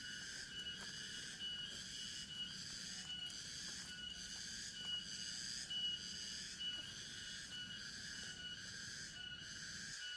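Forest insect chorus: several layers of steady high buzzing and trilling that pulse in an even rhythm, with one thin, high, steady tone above them. A low hum underneath cuts off at the very end.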